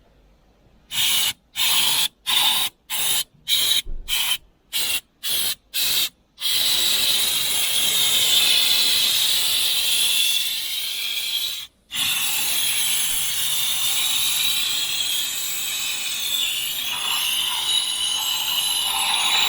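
A hand-held trigger nozzle at a car wash spraying in about ten short bursts, then held open in a steady hiss with one brief break about two-thirds of the way through.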